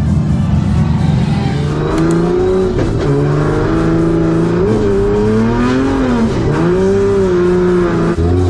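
A drift car's engine revving on track, starting about two seconds in, its pitch climbing and dropping several times as the throttle is worked.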